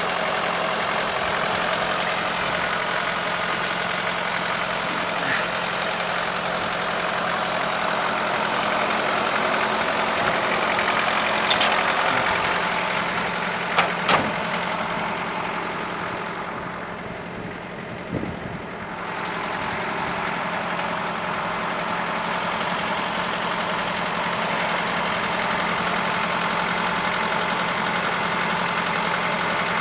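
A vehicle's engine idling steadily, with a few sharp clicks around the middle; the sound drops and dulls briefly about two-thirds of the way through, then settles back to the same steady idle.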